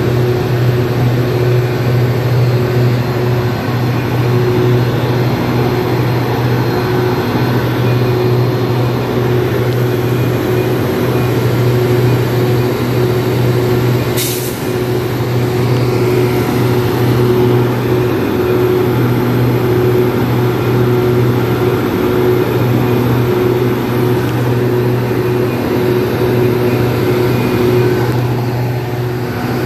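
Diesel train locomotive running steadily, with one brief sharp hiss of air about halfway through.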